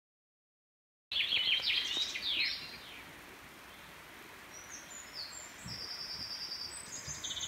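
Songbirds singing: after about a second of silence, a burst of rapid chirps and trills, then fainter, higher chirps, over a soft steady outdoor background.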